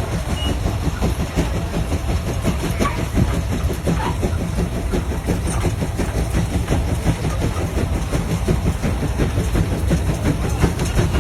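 Tractor engine running steadily with a fast, even clatter.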